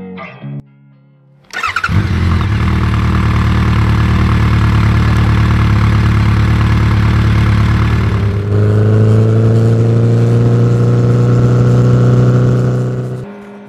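Honda CB1300 Super Four's inline-four engine running loudly, coming in suddenly about a second and a half in. About eight seconds in it turns to a smoother, steadier note that rises slowly in pitch, then fades out near the end.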